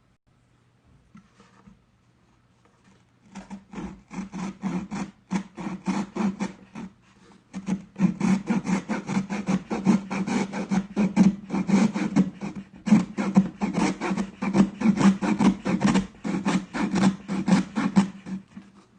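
Rapid rasping strokes, several a second, of something being sawn or scraped back and forth by hand on cardboard; they begin a few seconds in, pause briefly, then run on steadily.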